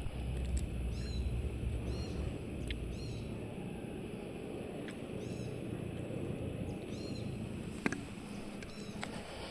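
A bird gives several short, high chirps at irregular spacing over a steady outdoor hiss, with a low rumble in the first two seconds and a single sharp click near the end.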